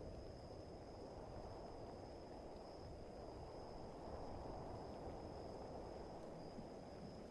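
Faint, steady night ambience of rain and wind, a low even rushing, with a continuous high-pitched insect trill over it.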